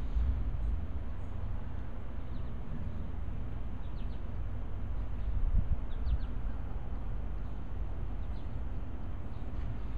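Outdoor ambience: a few faint, short bird chirps spaced a second or two apart over a steady low rumble that swells briefly about halfway through.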